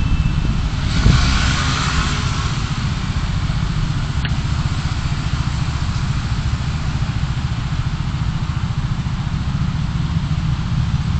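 Steady low rumble of a car running, engine and road noise as picked up by a dashcam, with a short rush of noise about a second in and a faint tick about four seconds in.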